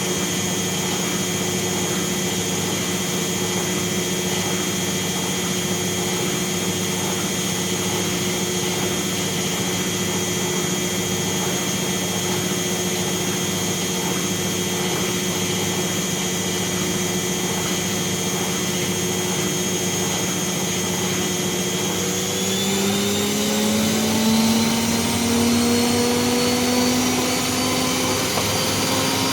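Bauknecht WAS 1400 washing machine running with a steady motor hum. About three-quarters of the way through, the pitch starts rising in steps as the motor speeds the drum up, winding up toward a spin.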